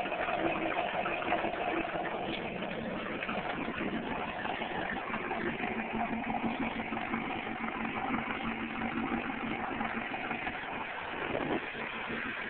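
Car engine running steadily through a new racing exhaust, a continuous low drone whose pitch shifts slightly midway.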